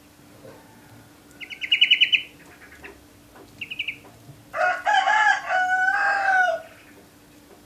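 A canary gives a short, rapid high trill, and a second brief one a couple of seconds later. Then a rooster crows loudly for about two seconds.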